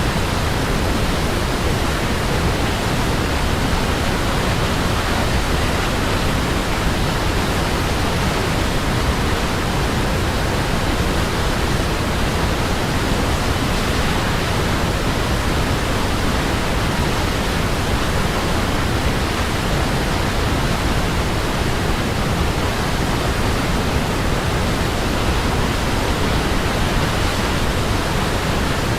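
Waterfall: a steady, unbroken rush of falling water, deep and even.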